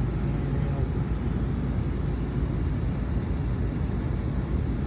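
Truck engine running steadily at low speed while reversing, heard from inside the cab as a continuous low rumble.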